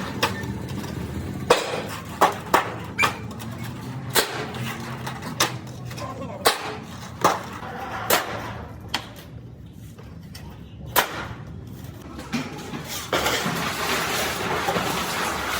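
Work on sheet-metal fuel tanks: a dozen or so irregular sharp taps and knocks of metal on metal over a steady workshop background. The background grows louder near the end.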